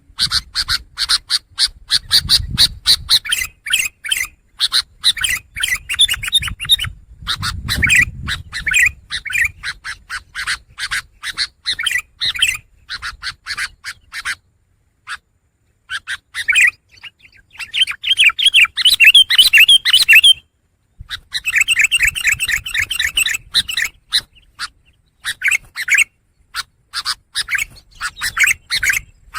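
Long-tailed shrike (pentet) singing a rapid chattering song of quick, high notes in runs, broken by a couple of brief pauses. The loudest fast trills come about two-thirds of the way through.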